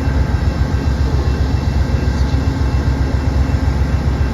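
Amtrak P42 diesel locomotive with its 16-cylinder engine idling, a steady low rumble while the train stands at the platform.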